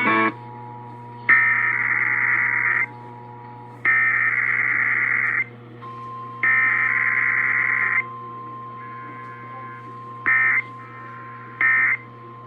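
Emergency Alert System digital header tones: three harsh, buzzy data bursts of about 1.5 s each, then three short end-of-message bursts near the end, over a steady low hum.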